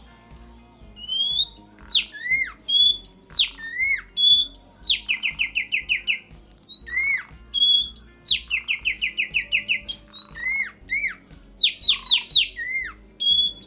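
Oriental magpie-robin and Asian pied starling singing loudly, starting about a second in. The song is clear whistled notes that slide sharply up and down, broken by quick runs of short repeated notes.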